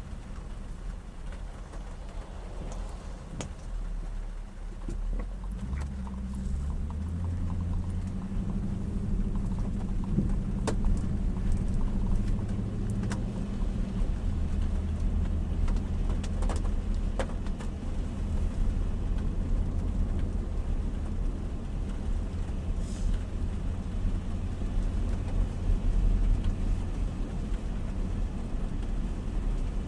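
A vehicle running with a steady low drone that steps up in pitch a few times and grows a little louder partway through, with a few faint clicks.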